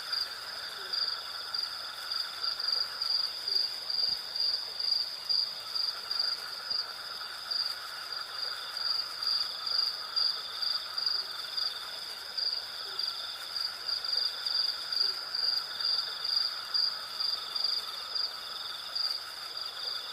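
Night chorus of crickets and other insects: a high chirping that pulses about two to three times a second over a steadier, slightly lower trill, with a lower buzzing that swells and fades every few seconds.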